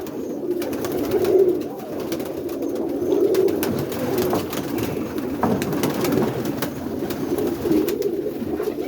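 Roller pigeons in a coop cooing continuously, many voices overlapping, with scattered light clicks and taps.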